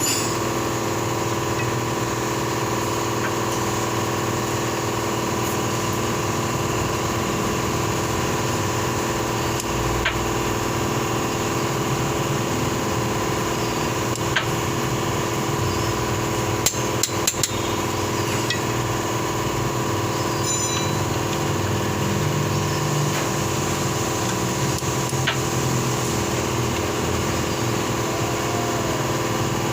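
Steady mechanical hum with a few sharp metallic clicks and knocks of hand tools at work on the flywheel bolts during final torquing, including a cluster of clicks about two-thirds of the way through.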